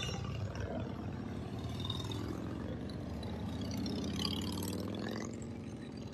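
Motor vehicle engines running, a low hum whose pitch slowly rises and falls.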